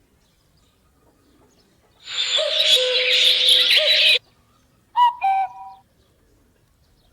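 Mobile phone ringtone of recorded songbird chirping (sparrows and bulbuls) ringing loudly for about two seconds, then cutting off suddenly as the caller hangs up: a missed call. About a second later comes a brief pair of clear tones.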